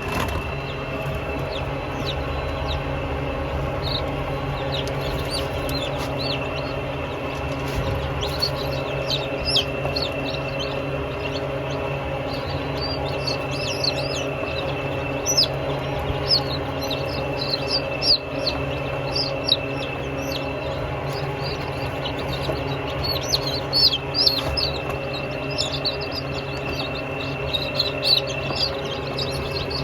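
Birds chirping in many short, high, falling notes, growing thick from about eight seconds in, over a steady low hum.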